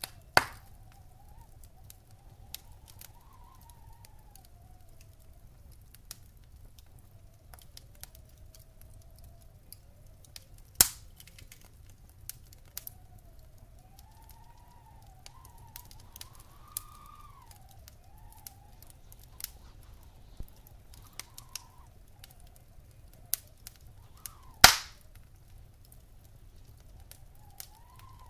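Wood fire in a fireplace crackling, with scattered sharp pops: the loudest near the start, about eleven seconds in, and near the end, over a steady low rumble. A faint wavering whistle rises and falls in the background.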